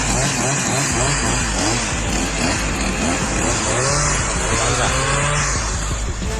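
A petrol engine running loud and continuous, its pitch rising and falling again and again as it is revved up and down.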